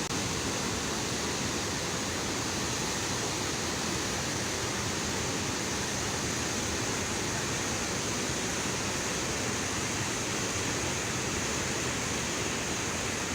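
Penna river floodwater rushing through a dam spillway, a steady, unbroken rush of water.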